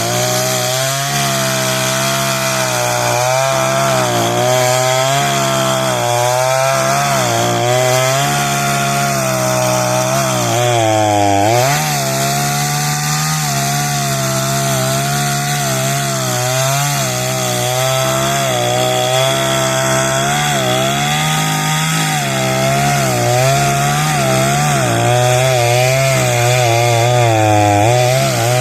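38cc Homelite chainsaw's two-stroke engine running steadily, its speed wavering up and down with a brief dip about twelve seconds in. It runs properly again after a fuel line replacement and a throttle pin refit.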